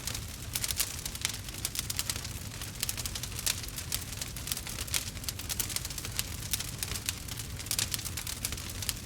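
Burning wood fire crackling, with many irregular sharp pops and crackles over a low, steady rumble of the flames.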